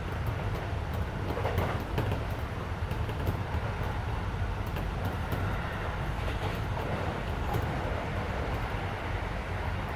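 Running noise heard from inside a Keisei 3400 series electric train car: a steady rumble of wheels and motors on the rails with scattered light clicks, and the car's air conditioning running underneath.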